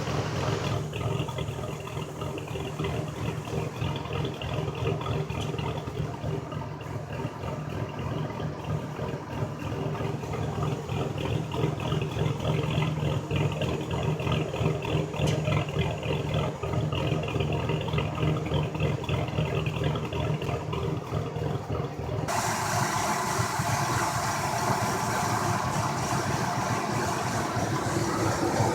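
2004 Ford F-150 Heritage's 4.2-litre V6 idling steadily. About 22 seconds in, a brighter hiss joins the engine sound.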